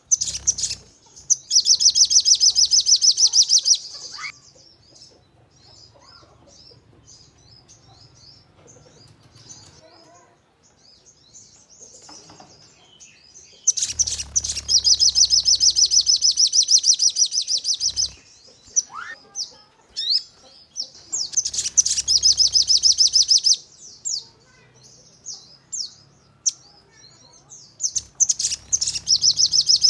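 Crested jay (sogon) calling in long, fast rattling trills of sharp, closely spaced high notes, four bursts of a few seconds each, with short chirps and a quick rising note in the gaps between them. This is the rapid-fire 'nembak' call used as a lure to set other sogon calling.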